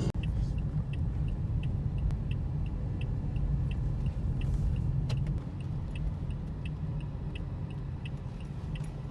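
Steady low rumble of a car ride heard from inside the cabin, with the turn-signal indicator ticking evenly about three times a second; the rumble eases a little about halfway through.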